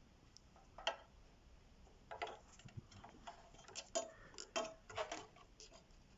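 Irregular light clicks and taps, about a dozen, mostly in the second half: a multimeter's test probes being handled and set against the welder's parts for a continuity check.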